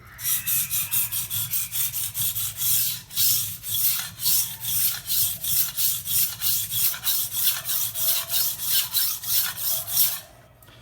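A steel knife blade being stroked back and forth over a wet whetstone, a quick, even scraping at about three to four strokes a second that stops near the end.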